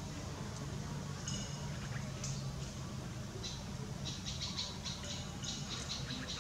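Small bird chirping in the background: single short high chirps, then a quick run of chirps in the second half, over a steady low hum.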